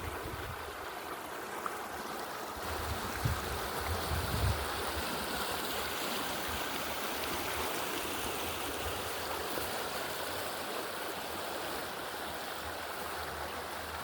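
Rain-swollen stream rushing steadily, an even hiss of flowing water, with a few brief low bumps about three to four and a half seconds in.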